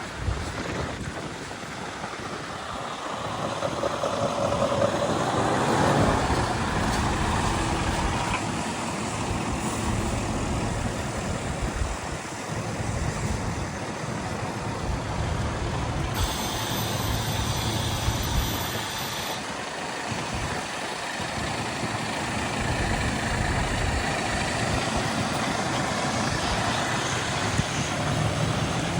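Scania 770S 16-litre V8 truck engine running at idle.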